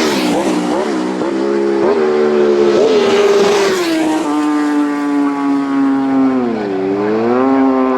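Road-racing motorcycle engines at high revs. Quick dips in pitch in the first few seconds, typical of gear changes, then a sustained high note that sags and recovers once near the end.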